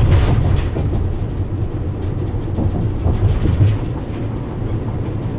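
Steady low rumble of road and tyre noise with engine hum inside a car driving at freeway speed.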